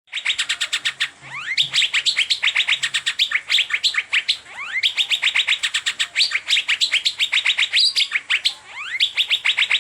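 Asian fairy-bluebird (cucak biru) singing a fast, continuous string of sharp, high downward-sweeping notes, many a second. The runs break off briefly about a second and a half, four and a half, and nine seconds in, with a few rising slurred notes at the breaks.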